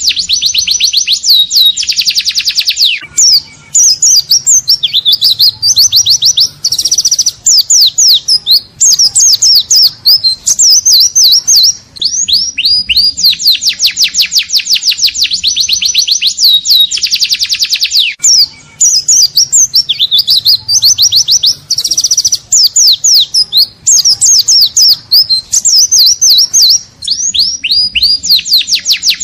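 White-eye (pleci) singing loudly in the ngalas style: long runs of fast, high chattering trills and sweeping notes, several a second, broken by a few short pauses.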